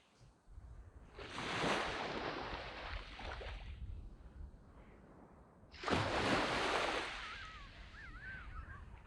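Sea waves washing up on a sand beach in two surges, one about a second in and a louder one about six seconds in. A short warbling bird call comes near the end.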